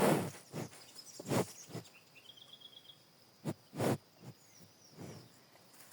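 A small bird giving a quick trill of rapid repeated notes about two seconds in, between several short, soft scuffing or rustling noises spaced about a second apart.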